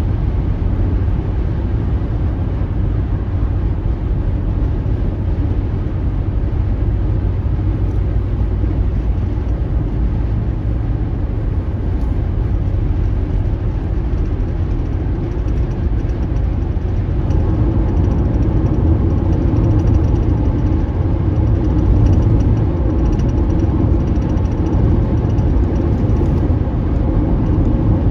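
Car driving: a steady low rumble of engine and road noise that swells a little past the middle.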